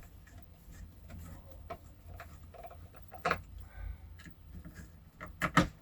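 Light clicks and taps of hands handling speaker parts, with a louder click past the middle and two sharp knocks near the end.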